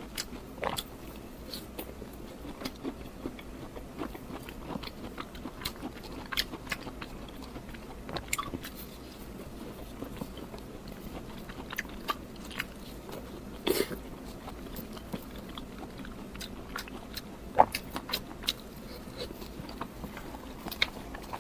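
Close-miked eating sounds: a person biting and chewing food, with frequent irregular wet clicks and crunches, the strongest a little past the middle.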